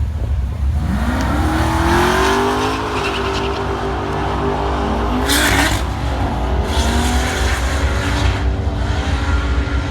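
FPV performance car's engine accelerating hard on a run, its pitch rising from about a second in and then holding high. A short burst of hiss-like noise comes about five seconds in.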